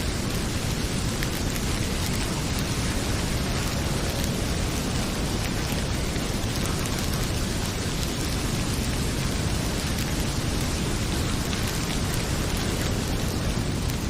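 Heavy rain pouring steadily with a deep low rumble, and a few faint crackles from a wood fire in a fireplace.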